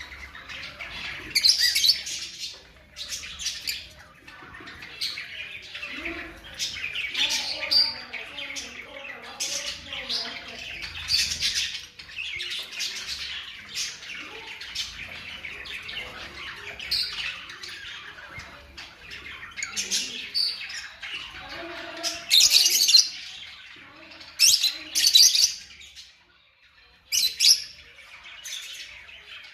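Fischer's lovebirds chattering, with frequent shrill chirps and squawks breaking through a steady twittering.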